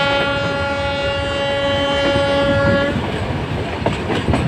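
Nilgiri Mountain Railway train sounding one long, steady blast of its horn, which stops about three seconds in, over the noise and rattle of the train running.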